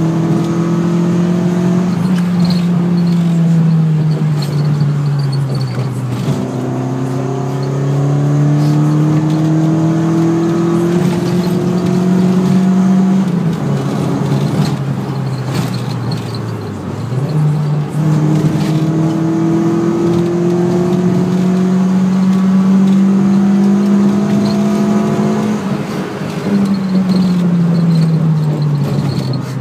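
Car engine heard from inside the cabin while driving, its note climbing slowly in pitch as the car speeds up and then falling away, several times over, with steady road noise underneath.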